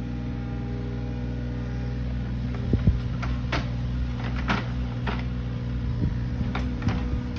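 An engine running steadily at an even pitch, with a handful of short knocks and clanks from about three seconds in.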